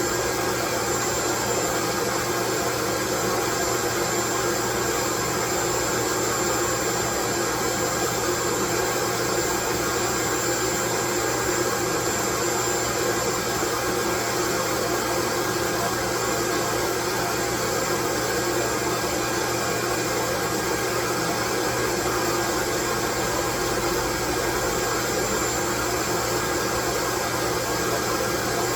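Steady white noise, an even hiss that does not change, with a faint high thin whistle running through it.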